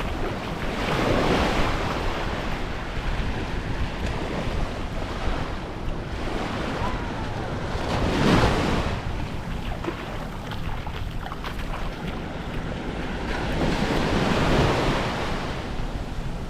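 Small waves washing up on the beach, swelling and fading about every six seconds, with a steady low rumble of wind on the microphone.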